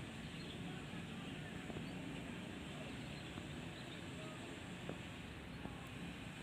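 Faint outdoor ambience: a steady low rumble with a few faint, short bird chirps.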